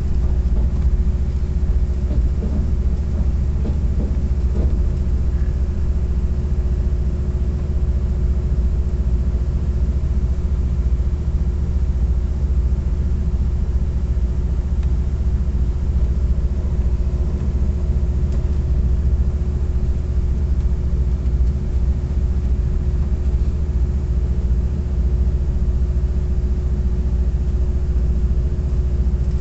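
Passenger train running along the track, heard from inside the coach: a steady low rumble with a constant hum over it.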